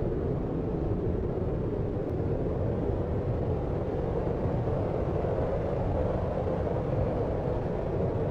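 Steady deep rumbling noise, even and unchanging, with its weight in the low and low-middle pitches and little hiss: brown-noise-style sleep sound with a distant-city-traffic character.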